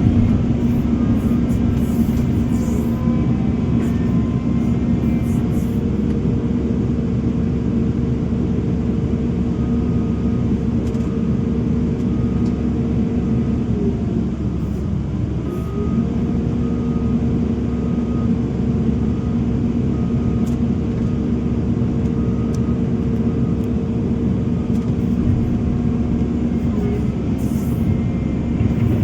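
Diesel engine of heavy earthmoving machinery running steadily. About halfway through, its pitch sags briefly, as if the engine is pulled down under load, and then climbs back to speed.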